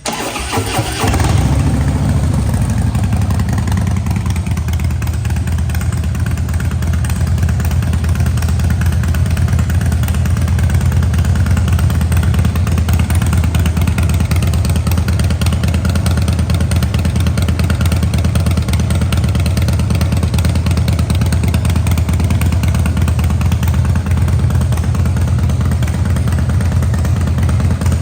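Harley-Davidson CVO Pro Street Breakout's V-twin starting through a Vance & Hines exhaust: a brief crank, it catches about a second in, then settles into a steady, loud idle.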